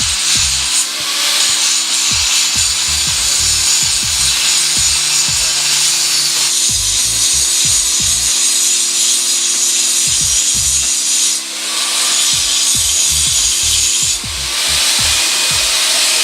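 A power tool cutting or grinding in a shop, running loud and continuously with short pauses about a second in, then near 11 and 14 seconds.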